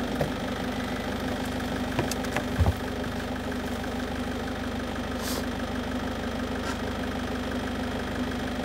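Globecar Campscout B camper van's diesel engine idling steadily just after being started, with a couple of light knocks about two seconds in.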